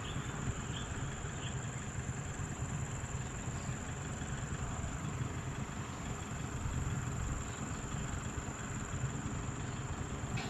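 Steady low vehicle rumble with a thin, steady high tone over it.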